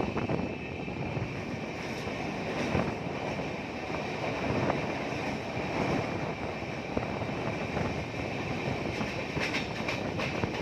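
Express train coach running along the track: a steady rumble and rail hiss, with a few brief sharp clicks from the wheels on the rails.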